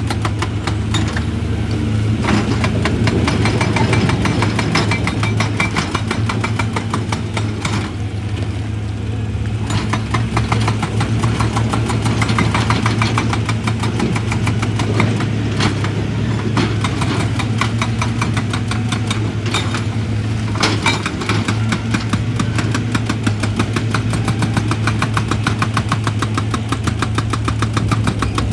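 Heavy construction machine's engine running steadily under load, with a dense, fast mechanical rattle over a low hum; the rattle dips briefly about eight seconds in.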